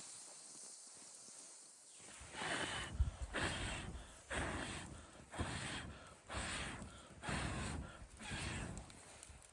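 Footsteps crunching through snow: after a short hush, slow, even steps come about once a second, seven in all.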